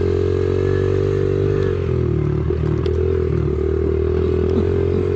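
Motorcycle engine running at a steady, fairly high pitch while riding, easing briefly about two seconds in, with a few light clicks or rattles near the middle.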